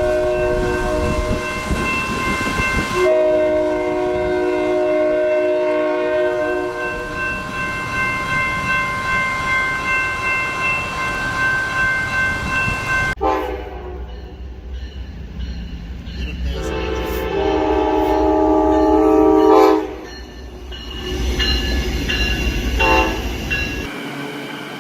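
Train horn sounding long held chords over a low rumble. About 13 seconds in, the sound cuts abruptly to a different stretch of shorter horn blasts with clattering.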